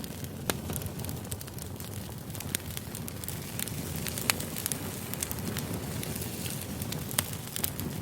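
Campfire burning: irregular sharp crackles and pops over a steady low rush of flame.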